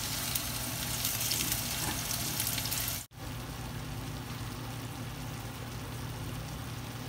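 Chicken legs sizzling in ghee and their own juices in a nonstick pan over a very low gas flame: a steady frying hiss with faint crackles. About three seconds in the sound cuts off sharply and returns as a quieter, even sizzle.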